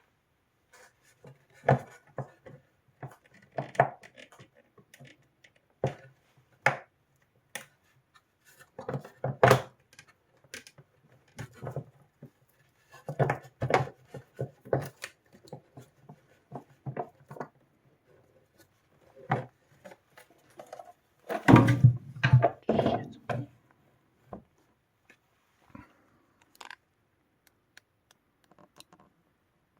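Irregular clicks, knocks and clatter of hands and tools working on a Sonos Playbar soundbar during disassembly, with a louder, denser run of knocks a little past two-thirds of the way through.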